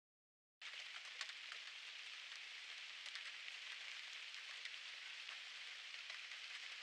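Rain falling, a faint steady hiss with scattered drop ticks, starting about half a second in.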